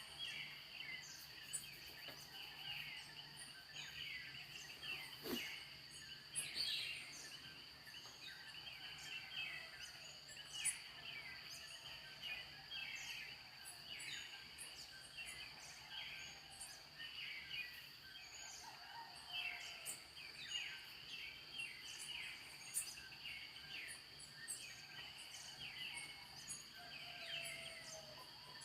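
Dawn chorus of many small birds chirping over a steady, high-pitched insect drone, with a faint low hum underneath.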